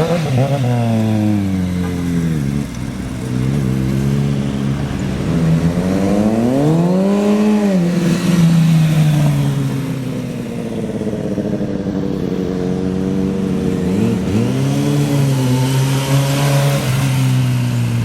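Kawasaki 636 sport bike's inline-four engine accelerating and easing off as it is ridden, its pitch rising and falling several times, with a steep climb and drop about seven seconds in.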